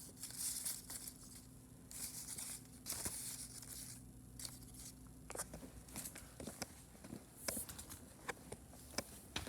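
Faint intermittent rustling, with scattered small clicks and ticks.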